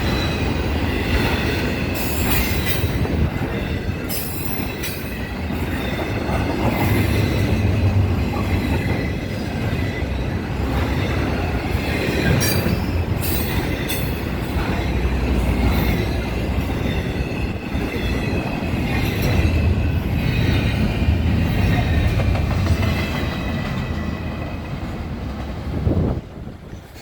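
Florida East Coast Railway train rolling past, a steady rumble of wheels on rail with a faint high squeal of wheels and scattered sharp clicks. The sound cuts off suddenly near the end.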